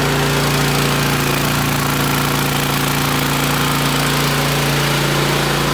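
Portable gasoline generator engine running at a steady speed under load, an even, unchanging hum.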